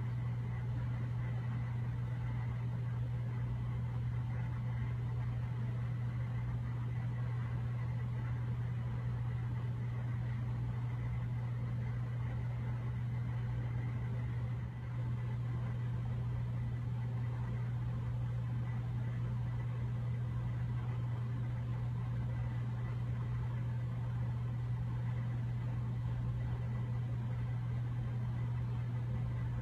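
A steady low hum with a faint high tone above it, unchanging throughout except for a brief dip about halfway through.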